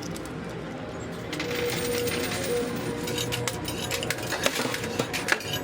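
Quarters clinking and clattering in a coin pusher arcade machine: coins dropping onto the playfield and jostling against the stacked coins, with many short metallic clicks.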